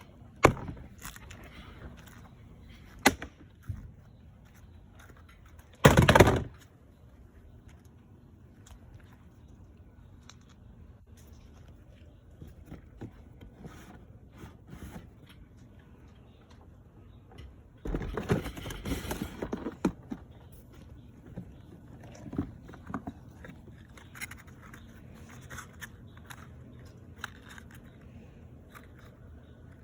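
Scattered knocks, scrapes and rattles of hard objects being handled and set down, with a loud clatter about six seconds in and a longer stretch of rattling around eighteen to twenty seconds.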